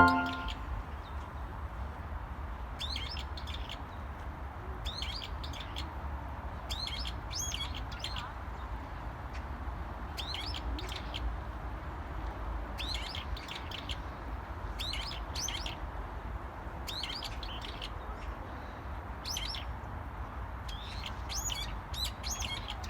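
Small songbird chirping in short bursts of high notes every second or two, over a steady low outdoor rumble.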